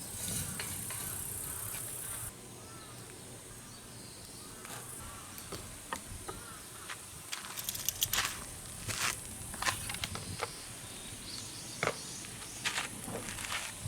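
Insects chirring steadily and high-pitched, dropping off abruptly a couple of seconds in. From about six seconds on, irregular sharp clicks and snaps come and go.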